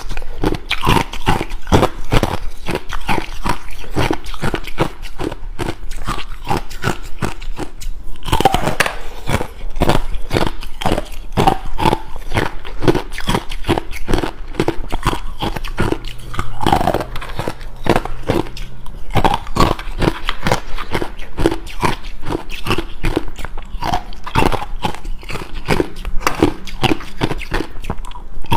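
Ice being bitten and chewed close to the microphone: rapid, continuous loud crunches, several a second, as the ice cracks between the teeth.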